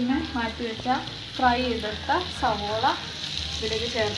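Chicken pieces sizzling as they fry in a steel pan, a steady hiss throughout. A person's voice rises and falls over it.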